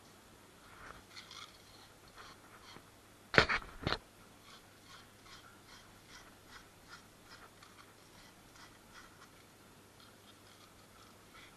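Light, even scraping or rubbing strokes, about three a second, from hand work on a pipe, broken about three and a half seconds in by two loud sharp knocks of metal on metal.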